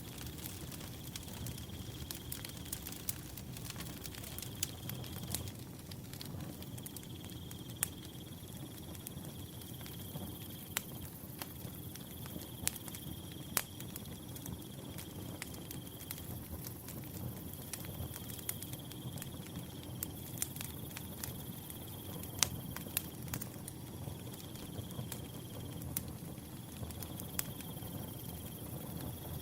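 Wood fire burning with a low steady rumble and irregular sharp crackles and pops, while a cricket trills in high stretches a second or two long with short breaks between them.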